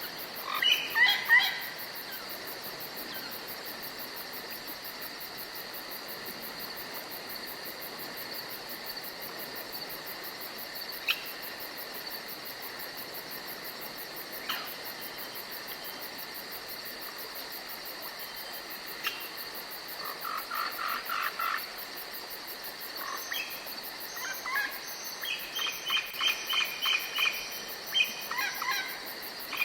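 Forest ambience: a steady high chirring of crickets, with birds calling over it. There is a loud burst of calls about a second in, single chirps here and there, and quick runs of repeated notes in the second half.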